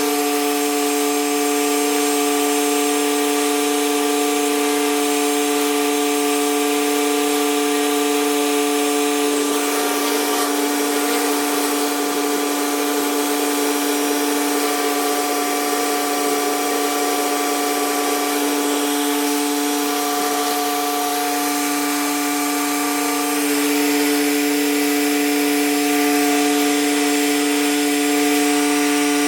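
Pressure washer running steadily, its motor and pump giving a constant hum over the hiss of the high-pressure water spray. The spray noise turns rougher for several seconds in the middle.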